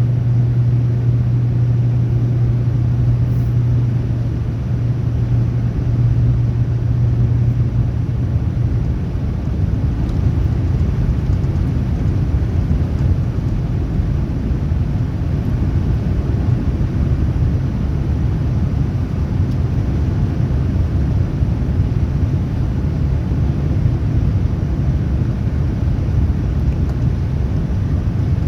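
Steady cabin rumble inside a Boeing 787-9 airliner in flight, from its Rolls-Royce Trent 1000 engines and the airflow. A low steady hum fades out about eight seconds in, leaving the even rumble.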